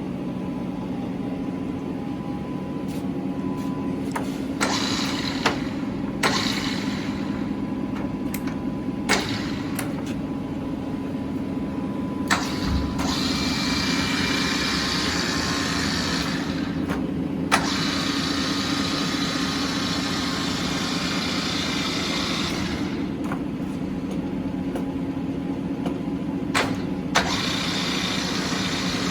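Large Tru-Turn engine lathe's 30 kW main motor and geared headstock running steadily with a low hum. Several sharp clicks and stretches of higher-pitched whirring come and go over it.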